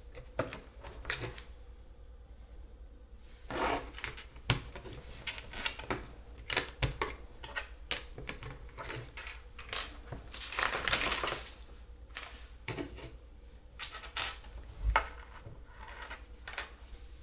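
Plastic LEGO pieces clicking and clattering as they are handled and pressed together, with two longer stretches of shuffling through loose pieces, around four seconds in and again around eleven seconds.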